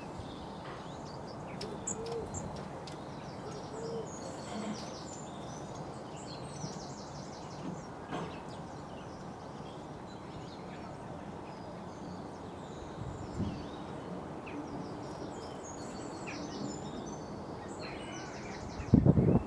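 Small garden birds chirping and twittering in many short, high calls over a steady low background rumble, with a loud, short, low-pitched sound near the end.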